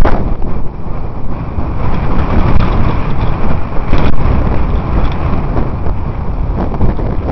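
Wind rushing over the microphone of a camera carried on a moving bicycle: a loud, steady, rumbling rush.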